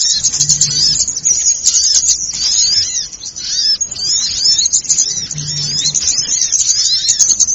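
Bird-lure (pikat) recording of a noisy flock of small birds: many overlapping quick, high-pitched chirps and twitters. It is the agitated, excited calling used to draw small birds in.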